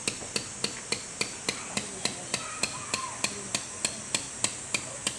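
A hammer tapping in a fast, even rhythm of sharp strikes, about three or four a second.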